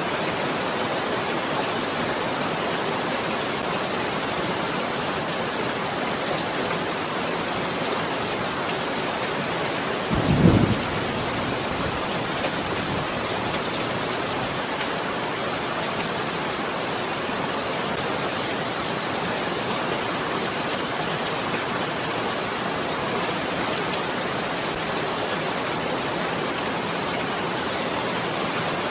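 Steady rain, with one short, low thunder rumble about ten seconds in.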